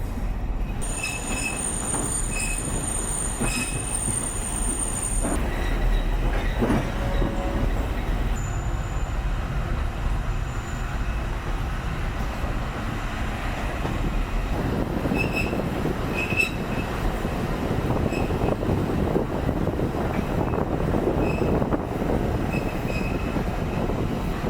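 Alishan Forest Railway train running, heard from inside the carriage: a steady rumble of the wheels on the track, with a thin high whine in the first few seconds and the noise growing louder about fifteen seconds in.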